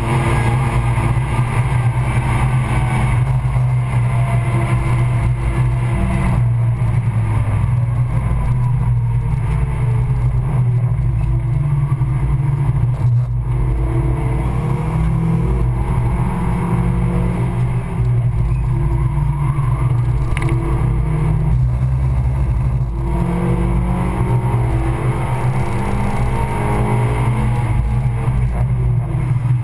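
Tuned Suzuki Swift Sport four-cylinder engine under hard track driving, heard from inside the cabin. The revs climb and drop again and again through the lap, over a steady road and drivetrain drone.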